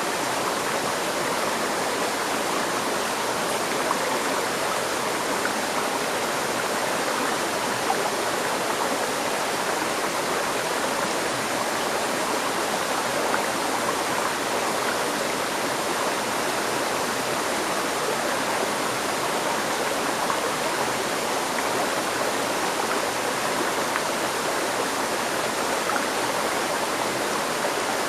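River stream flowing over rocks: a steady, even rush of water.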